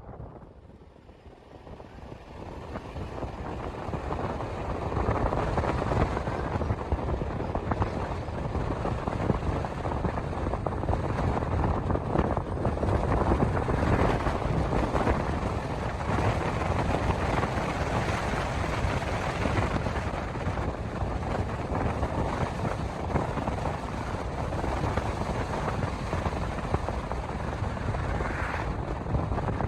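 Steady rumble of road and wind noise from a moving car, as picked up by a dashcam, fading up over the first few seconds and then holding even.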